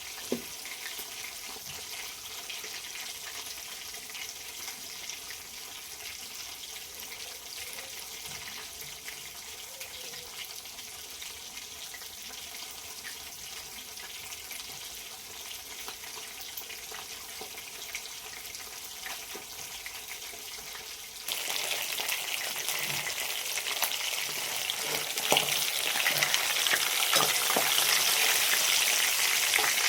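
Food frying in hot oil in a pan: a steady sizzle with occasional stirring clicks. About two-thirds of the way through, the sizzle suddenly becomes louder and brighter.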